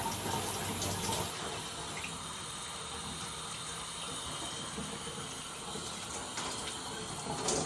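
A shower running steadily, water spraying down in a small bathroom.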